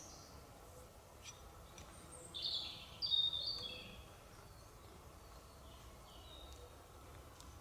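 A small songbird singing a brief phrase of high, quick chirps about two seconds in, with a few fainter calls before and after, over steady faint background noise.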